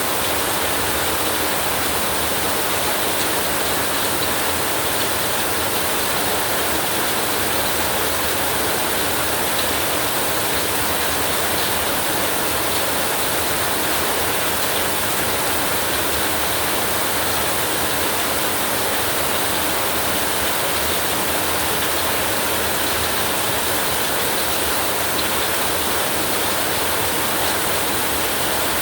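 Steady heavy rain falling, an even hiss with no change in level and no thunder.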